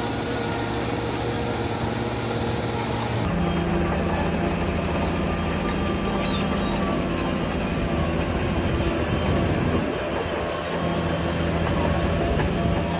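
Heavy diesel earthmoving machinery running steadily under load, with the metallic squeal and clatter typical of steel crawler tracks. The sound changes abruptly about three seconds in.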